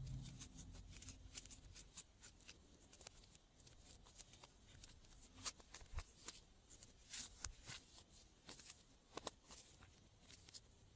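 Faint sticky clicks, crackles and small pops at irregular intervals from slime being worked by hand, thickest around the middle.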